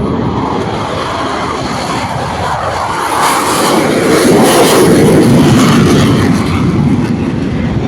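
Saab JAS 39 Gripen's single Volvo RM12 turbofan engine as the fighter passes in a display. The jet roar swells to a peak about halfway through, with a harsh hiss on top, and eases off near the end.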